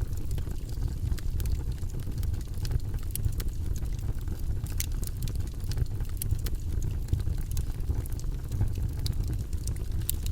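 Campfire burning: a steady low rumble with scattered sharp crackles and pops at irregular moments.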